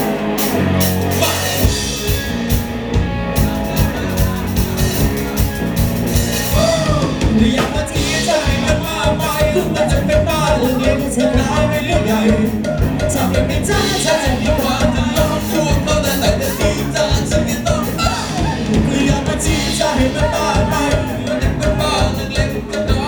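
A pop-rock band playing with drum kit and a singer's voice over it, a steady beat throughout.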